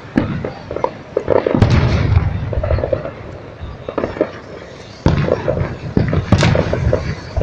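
Aerial firework shells bursting: four heavy bangs with crackling and rumble between them, the loudest about a second and a half in and just after six seconds.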